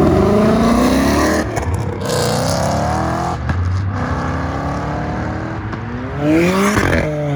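Car engine accelerating hard: the revs climb, drop on an upshift about a second and a half in, climb again and shift once more a little later, then rise loudly again near the end.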